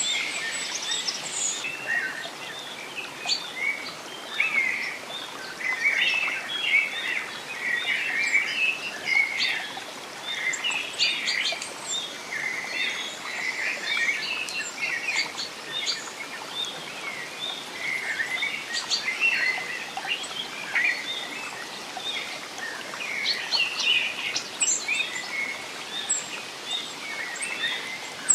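Several songbirds chirping and singing, many short calls and trills overlapping throughout, over a steady soft hiss of background noise.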